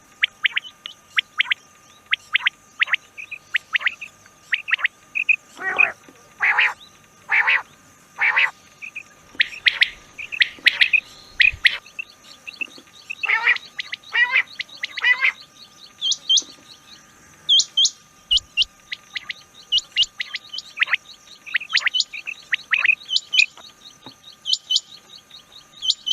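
Rain quail calling: a long run of short, sharp, repeated notes, with two bursts of louder, lower, descending calls about six and thirteen seconds in. A faint steady tone runs underneath.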